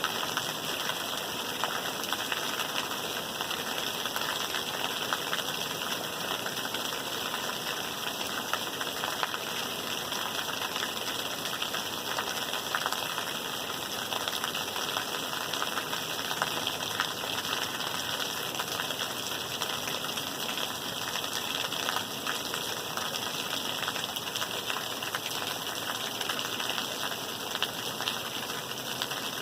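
Steady rain falling: an even hiss dotted with countless small drop ticks, unchanging throughout.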